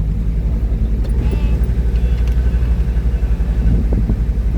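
Steady low rumble of a car driving, with engine and road noise heard from inside the vehicle.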